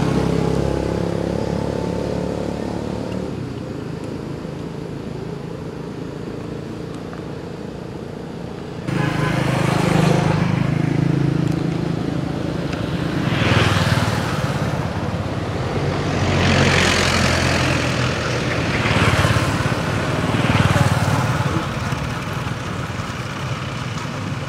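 Motor traffic: a steady engine hum, then after an abrupt change several vehicles passing one after another, each swelling and fading.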